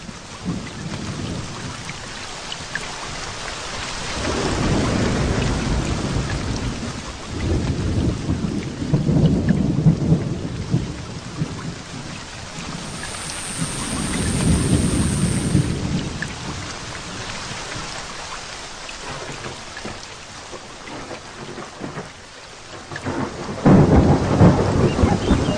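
Heavy rain with thunder. Long low rumbles swell and fade several times over a steady hiss of rain, and a louder peal breaks near the end.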